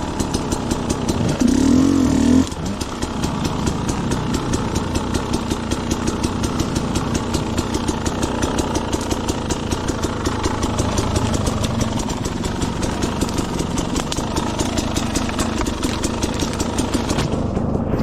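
Two-stroke dirt bike engine idling with a steady run of firing pulses, with a brief louder burst about two seconds in.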